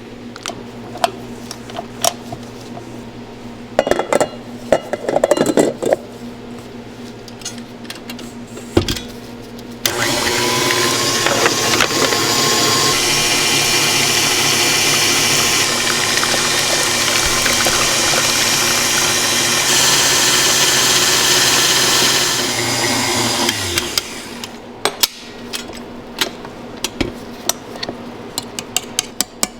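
A small electric motor runs steadily for about fourteen seconds, starting about ten seconds in and spinning down with a falling pitch near the end. Scattered clicks and knocks come before and after it.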